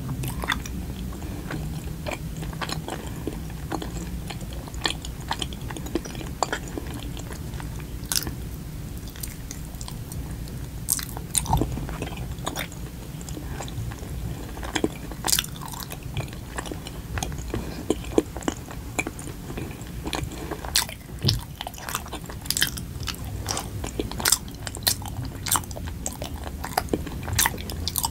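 Close-miked biting and chewing of a soft, sticky Korean rice cake, with many wet mouth clicks and smacks that come more often in the second half.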